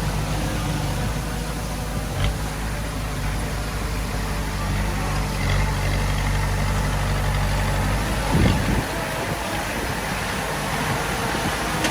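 Diesel engine of heavy earthmoving equipment running steadily at a low, even speed, with a couple of brief knocks about two seconds in and near eight and a half seconds.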